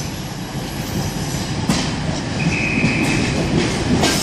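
Diesel train pulling into the platform: a steady low rumble of engine and wheels, a brief high wheel squeal around the middle, and a couple of clanks.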